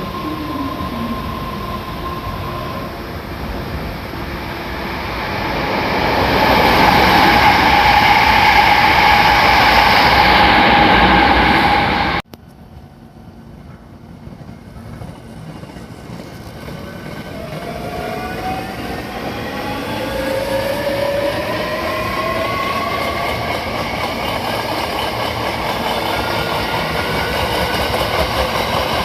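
Electric train at a station platform: loud wheel and running noise that swells for several seconds, then cuts off abruptly. After the cut a train pulls away, its traction motors giving a whine that climbs in pitch as it accelerates, with wheels clattering over the rail joints.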